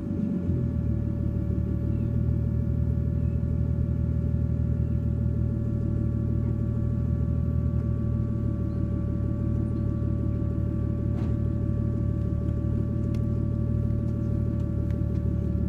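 RB20DET turbocharged straight-six in a Nissan 240SX idling steadily through a Megan Racing test pipe and cat-back exhaust, the revs having just dropped back to idle at the start.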